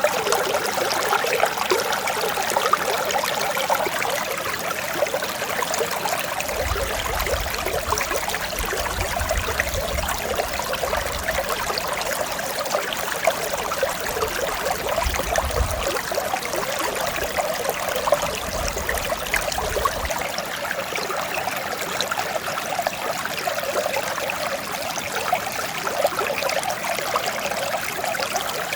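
Mountain stream on Odaesan's Seonjae-gil flowing and babbling steadily, an even rush of water with fine bubbling. A low rumble sits underneath for a stretch in the middle.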